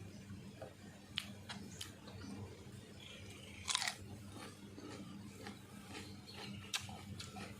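A person chewing and eating food close to the microphone, with scattered sharp mouth smacks and clicks; the loudest come near four seconds and near seven seconds in, over a faint low hum.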